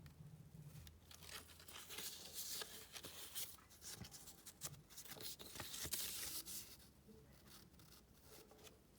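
Faint rustling and crinkling of coin packaging being handled, with scattered light clicks, busiest in the middle and dying away near the end.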